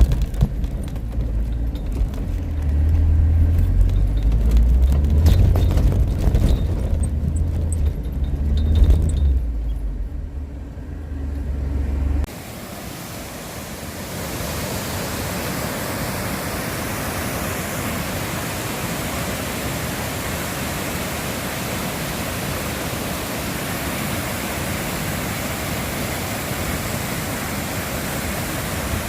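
Low engine and road rumble of a Suzuki Jimny being driven, for about the first twelve seconds. It then cuts off suddenly to a steady, even rushing noise.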